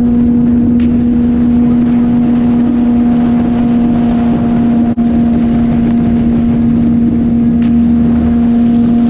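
Suzuki GSX-R sport bike engine holding steady revs while cruising, one constant high tone with wind rushing over it. The sound drops out for a split second about five seconds in.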